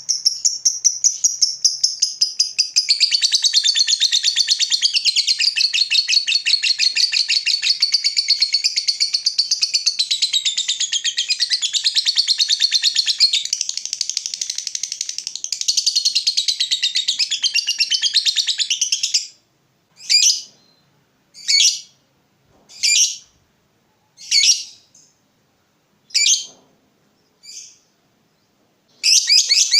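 A lovebird's long rapid chattering trill (the 'ngekek' song). After about nineteen seconds it breaks into seven short single calls roughly a second and a half apart, then the fast chatter starts again near the end.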